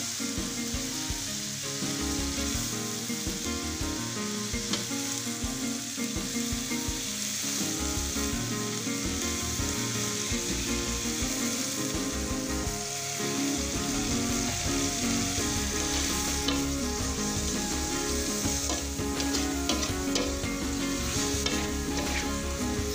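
Shrimp sizzling as they fry in a wok, with a metal spatula stirring and scraping against the pan. The scraping strokes come thicker near the end.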